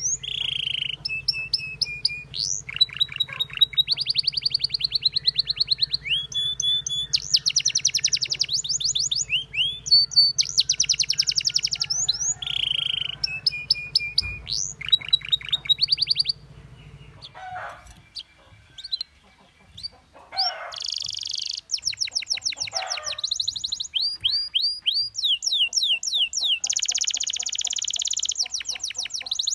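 Canary singing: fast trills and rolls of rapidly repeated whistled notes, pausing briefly a little past halfway before starting again. A steady low hum runs underneath and stops about halfway through.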